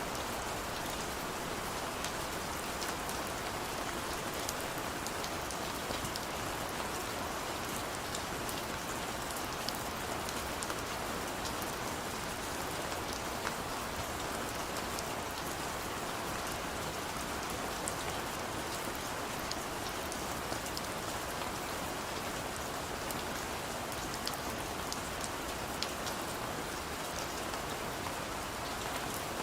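Heavy rain falling steadily, a dense even hiss with many sharp individual drop ticks spattering on a hard surface.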